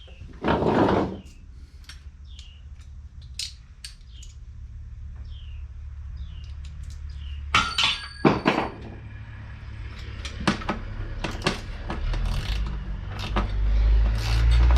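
Hand tools and metal engine parts clinking and knocking during an engine-bay teardown: a loud scrape just after the start, two sharp ringing metal clinks about halfway through, then scattered clicks. A low rumble swells near the end.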